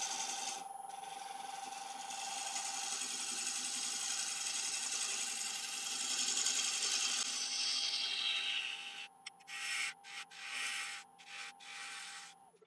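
Turning tool cutting across the underside of a spinning laburnum bowl on a wood lathe: a steady hissing scrape. About three seconds before the end it breaks into several short strokes as the tool is touched on and lifted off.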